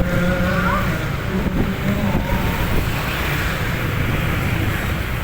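Busy street ambience: a steady din of vehicle traffic with faint voices of a crowd in the background.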